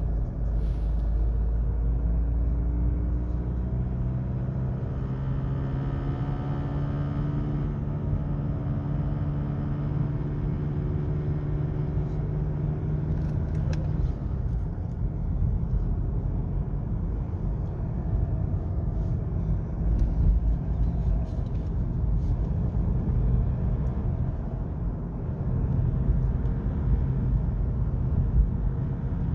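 Volkswagen Golf Mk7 GTD running, with a steady pitched hum through about the first half that rises in pitch for a few seconds, then a rougher even rumble. The buzzing noise in it is the owner's problem with the car.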